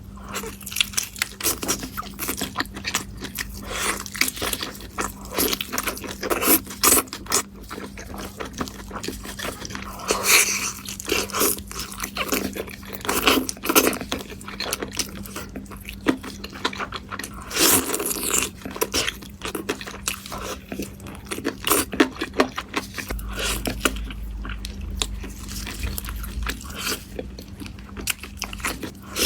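Close-miked chewing and biting of chicken cooked with red chilies: a dense, irregular run of sharp crunches and wet chewing sounds.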